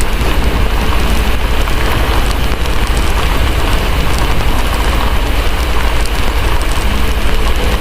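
Steady heavy rain over a constant low rumble, with the scattered small crackles of a wood fire.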